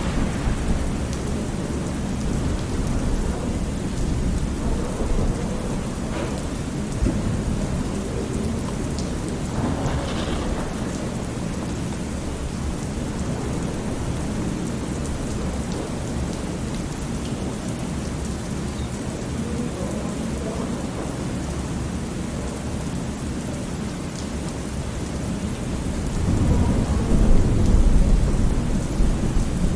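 Thunderstorm: steady rain falling with continuous low thunder rumbling, and a louder roll of thunder swelling up near the end.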